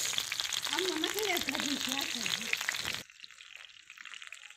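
Whole field mice frying in hot oil in a pan, a dense crackling sizzle that cuts off suddenly about three seconds in, giving way to much quieter sound.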